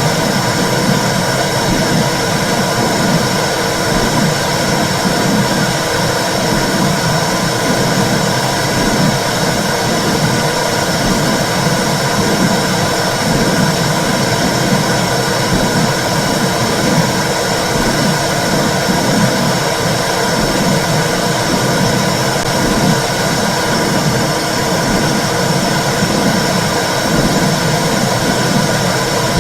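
Womb sound: a steady, loud whooshing noise with a regular low pulsing, as of blood flow and heartbeat heard inside the uterus.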